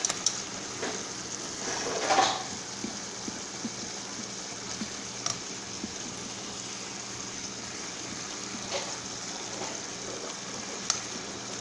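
Chicken thighs simmering in a skillet: a steady bubbling sizzle with scattered small pops, and a brief louder swell about two seconds in.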